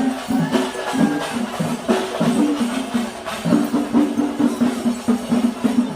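Temple festival percussion ensemble of drums and jingling metal percussion playing a fast, steady rhythm. A horn note falls away just as it begins.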